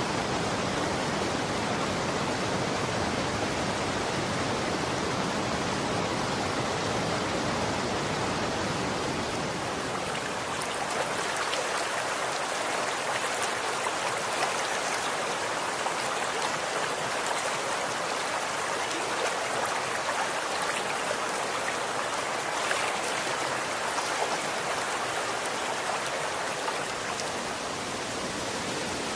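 Running water flowing in a steady continuous rush with fine splashing. About ten seconds in, the deeper rumble fades and the sound becomes lighter and more trickling.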